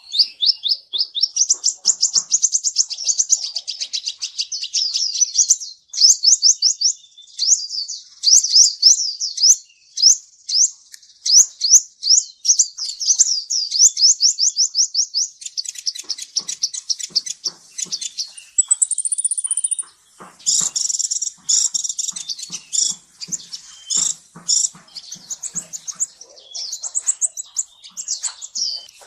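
Kolibri ninja (a sunbird) singing a fast, high, chattering song of quick repeated notes and trills, with a thin very high whistle at about two thirds of the way through and buzzier notes after it.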